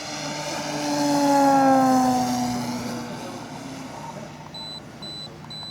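Electric RC AT-6 Texan's big 20x10 propeller flying past. Its buzzing tone swells to a peak about a second and a half in, then fades as its pitch drops. Near the end come three short high-pitched beeps.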